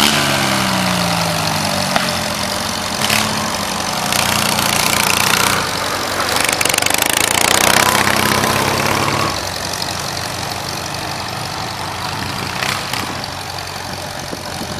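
Farm tractor engine working under load, pulling the weight sled down the track in high gear. Its pitch sags over the first few seconds, climbs again, then the engine eases off about nine seconds in.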